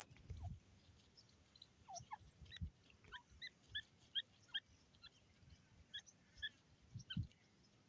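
Faint, short bird chirps repeated two or three times a second through the middle, with a few soft low thumps in between.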